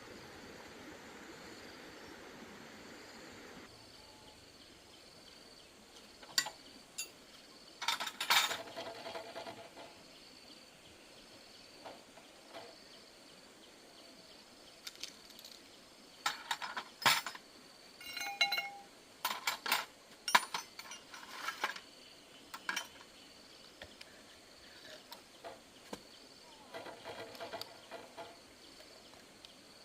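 Scattered metallic clinks, taps and knocks of hand tools and metal parts, coming in short clusters, over a faint steady chirping of insects. A low hiss stops a few seconds in.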